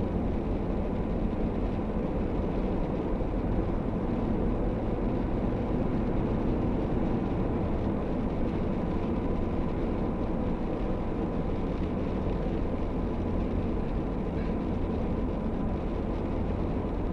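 A truck driving along a highway: steady engine and tyre noise with no change.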